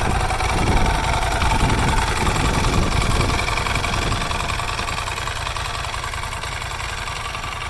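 Motorcycle engine running at idle with a steady low rumble, a little louder in the first few seconds and then settling.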